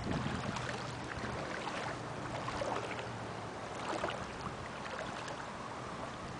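Shin-deep tidal floodwater sloshing, with small light splashes scattered through it over a steady hiss.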